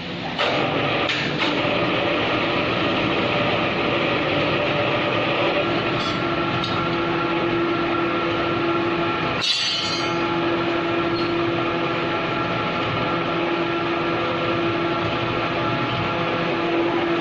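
A large engine running steadily with a continuous droning hum, and one sharp click about halfway through.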